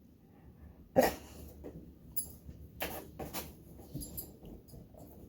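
A dog making a brief vocal sound about a second in, followed by a few fainter short sounds.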